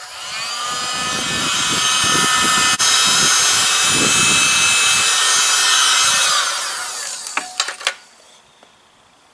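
Electric heat gun switched on: its fan motor whine rises as it spins up, runs steadily over the rush of hot air for about six seconds, then winds down and stops near the end with a few clicks. It is warming cold plastic trim and a mud flap so the adhesive tape will bond.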